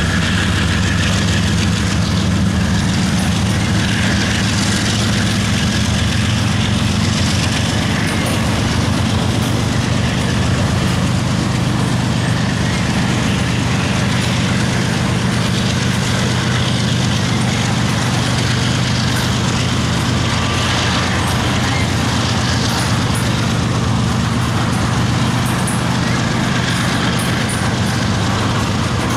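Several diesel freight locomotives in a mixed CSX, Union Pacific and BNSF lashup running under heavy throttle, a steady deep engine drone. Loaded freight cars roll past close by.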